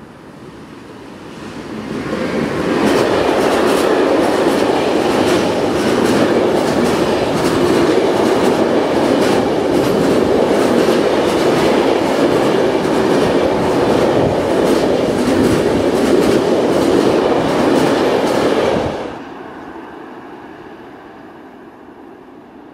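Freight train of hopper wagons passing close by: loud rolling of steel wheels on the rails with a steady clickety-clack of the wheels over the rail joints. It builds up about two seconds in, stops abruptly near the end as the last wagon goes by, and leaves a fading rumble.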